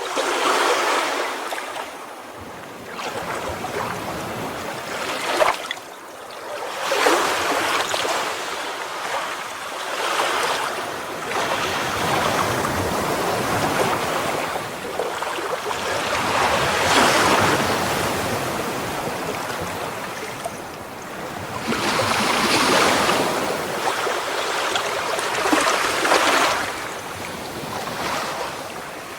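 Ocean surf: waves breaking and washing up a shore, the rush of water swelling and falling back in repeated surges every few seconds.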